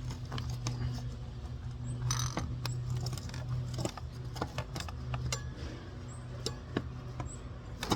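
Metal tools clicking and clinking against a dirt bike wheel rim as the tire bead is levered back on, with a scrape about two seconds in, over a steady low hum.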